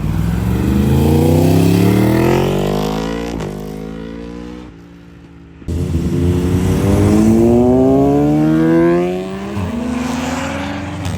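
Car engines under hard acceleration in two separate pulls, the pitch climbing steadily with a sudden drop at each upshift. The first pull cuts off abruptly about five seconds in, and a second one starts about a second later.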